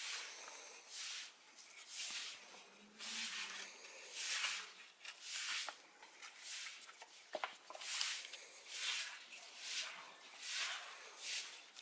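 Paintbrush strokes brushing paint onto rough, textured concrete, a dry swishing rub repeated about once a second.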